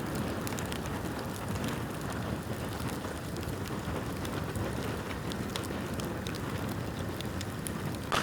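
Bamboo bonfire burning: a steady low rushing with many small scattered crackles and snaps.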